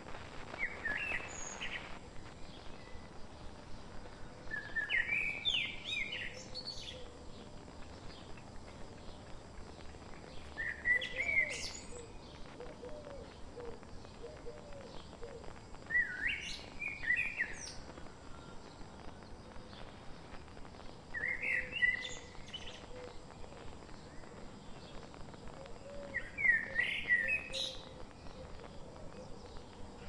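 A songbird singing a short, bright phrase of rising notes, repeated about every five seconds, over a steady fast ticking in the background.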